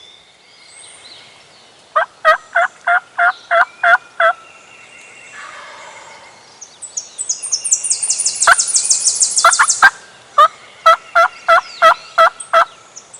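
Turkey yelping: two runs of about eight evenly spaced yelps, each note dropping in pitch, the hen-style calling used to bring in a gobbler. Between the two runs a high, fast trill sounds for a few seconds.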